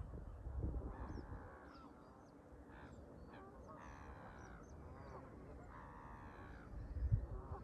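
Canada geese honking, several calls a second or two apart. Wind buffets the microphone with low rumbling gusts at the start and again near the end.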